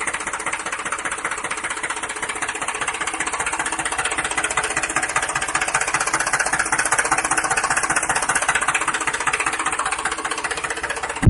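Small electric motor of a homemade toy tractor running steadily with a fast, even rattling buzz.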